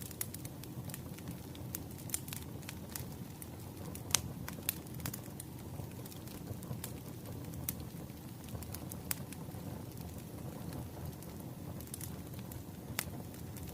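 Wood fire burning and crackling: a steady low rumble with irregular sharp pops and snaps.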